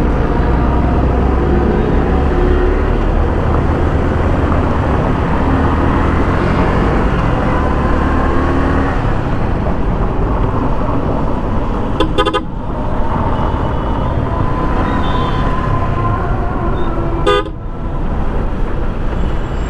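Road noise from a moving motorcycle: steady wind and engine rush, with other vehicles honking their horns now and then. Twice there is a short crackle with a dip in loudness.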